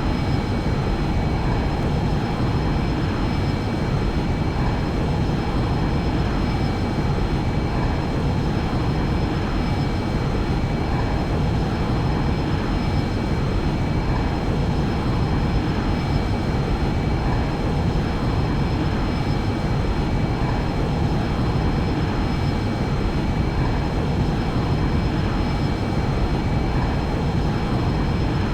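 Airplane in flight: a steady, unchanging drone of engine and rushing air, with a few faint steady high whines over it.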